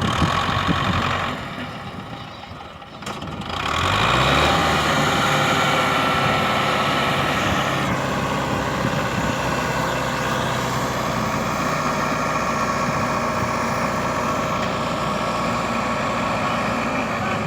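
Tractor diesel engine running. About three and a half seconds in it revs up, then holds a steady higher speed.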